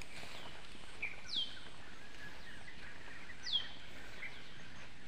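A bird calling twice, each call a short whistle sliding down in pitch, with fainter calls and short chirps in between, over a steady outdoor hiss.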